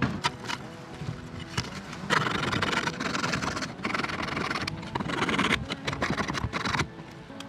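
Rapid, rhythmic scraping strokes of a hand tool working a plastic part, starting about two seconds in after a few sharp clicks and stopping abruptly near the end.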